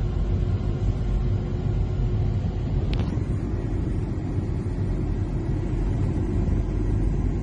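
Steady low rumble of a motorboat running, with one sharp click about three seconds in.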